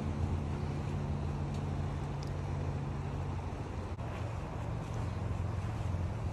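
A steady low engine hum with a faint noise bed, its pitch shifting slightly about four seconds in.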